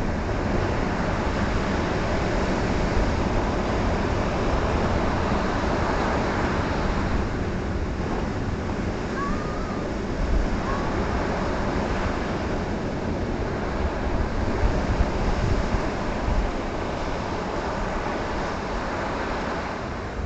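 Ocean surf breaking and washing on the shore, a continuous rushing roar that swells as waves crash, with wind buffeting the microphone.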